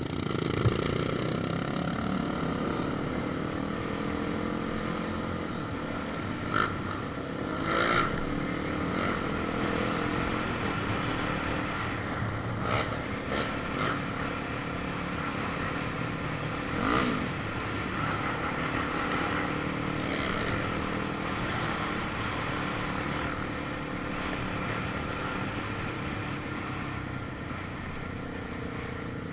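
A motor vehicle's engine running steadily, its pitch drifting slowly up and down as it drives, with a few knocks and rattles.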